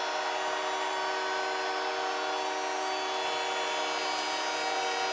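Arena goal horn sounding a steady, unbroken chord over a cheering crowd after a home goal.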